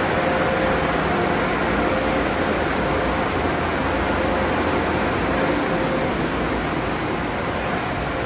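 Steady rushing noise from running car wash tunnel equipment, with a faint steady hum underneath.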